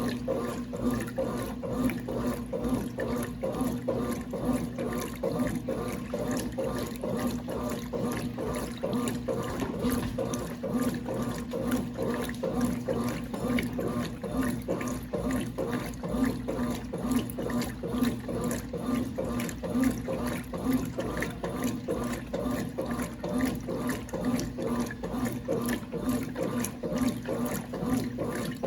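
Brastemp Clean 5 kg washing machine running with water in it: steady splashing and churning water over a constant low hum.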